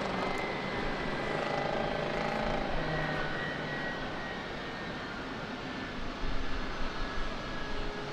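Airbus A321 jet engines running, a steady rush of jet noise with a faint high whine that slowly drops in pitch, swelling with some low rumbling about six seconds in.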